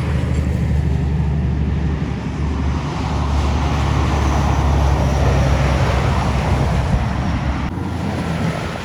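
Heavy truck driving past: a low diesel engine drone with tyre and road noise, swelling to its loudest about halfway through and easing off near the end.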